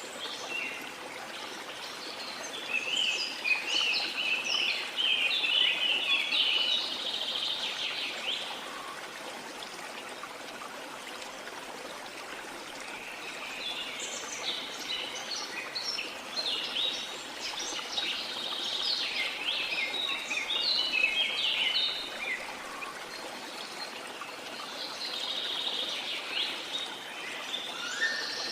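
Birds singing in long spells of quick, high chirps over a steady rush of flowing water.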